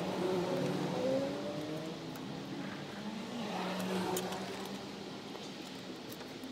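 A motor vehicle engine running steadily, its pitch rising about a second in and shifting again around three seconds in.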